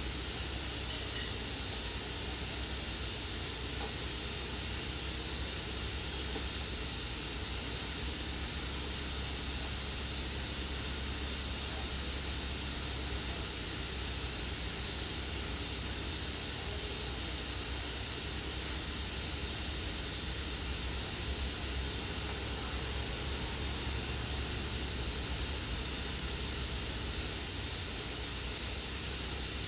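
Steady hiss of a compressed-air paint spray gun, running without a break.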